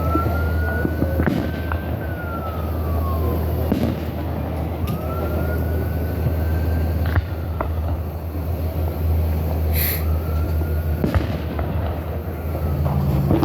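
Fireworks going off. Three whistling shells rise in pitch and then fall away, with scattered sharp bangs and crackles over a steady low rumble.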